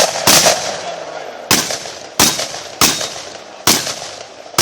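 Shotgun fired in a rapid string: about six sharp shots, most of them roughly two-thirds of a second apart, with one longer pause after the first, each shot trailing a short echo.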